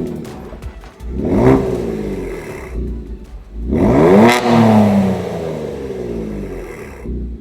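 Kia Stinger with a newly installed aftermarket exhaust system, its engine revved in blips: a short rev about a second in, then a longer, louder rev around four seconds in that falls back slowly toward idle.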